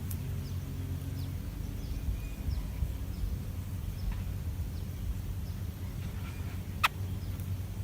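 Outdoor ambience: a steady low rumble with faint, short bird chirps scattered through it, and one sharp click about seven seconds in.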